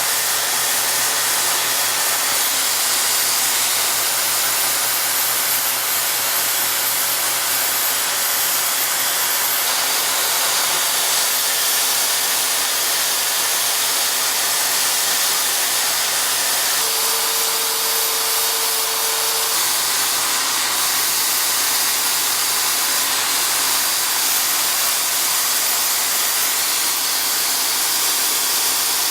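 Homemade mini lathe running under its electric motor, a steady, even whir with a brief added tone about two-thirds of the way through.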